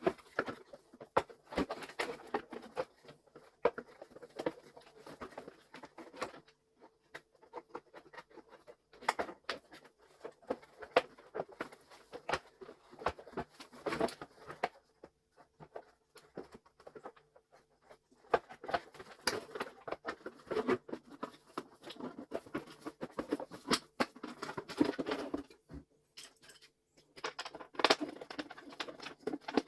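Handling noise from a vacuum cleaner being reassembled: irregular clicks, taps and scrapes as its motor and parts are fitted back into the housing, coming in clusters with short lulls.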